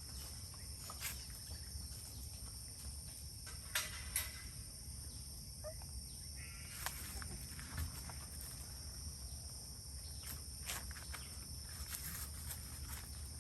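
Quiet outdoor farm ambience: a steady high-pitched drone with a low rumble beneath it and scattered soft clicks and knocks.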